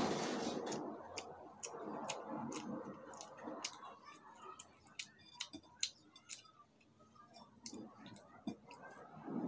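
Close-miked eating: chewing and wet mouth smacks giving a string of sharp clicks, two or three a second, with the soft squish of fingers mixing rice on a plate.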